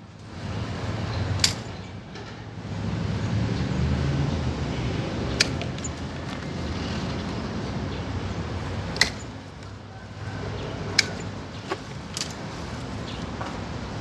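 Hand shears snipping yellow ixora stems into cuttings: five sharp, single snips spread over several seconds, over a steady low rumble.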